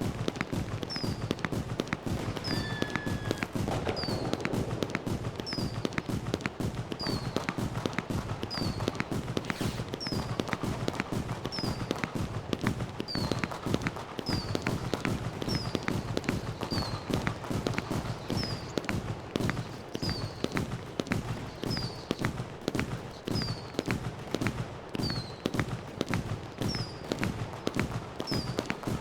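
Fireworks crackling in a rapid, continuous stream of small pops. A short, high, falling chirp repeats about every second and a half.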